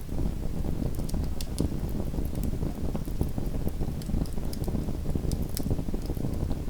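Small wood fire crackling in a fireplace: a steady low rumble of the flames, with sharp pops and crackles scattered irregularly throughout.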